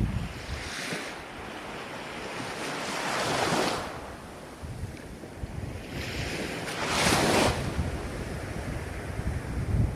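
Ocean waves breaking and washing in, with two louder surges, one about three seconds in and a bigger one about seven seconds in, over wind rumbling on the microphone.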